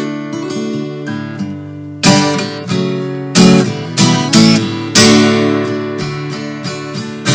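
Acoustic guitar played fingerstyle: an instrumental passage of plucked chords with no singing. It is lighter for the first two seconds, then strongly plucked chords come about every half second to second.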